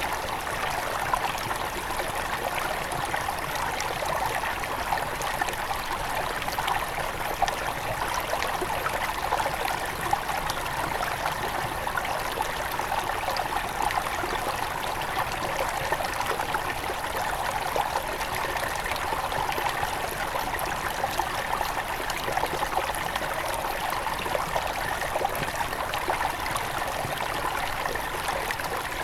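Forest river at its headwaters flowing steadily, a continuous babble and trickle of running water that holds even throughout.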